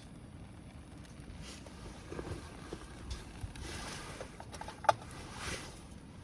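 Wood campfire crackling, with scattered small pops and one sharp loud crack about five seconds in, over a low steady rumble.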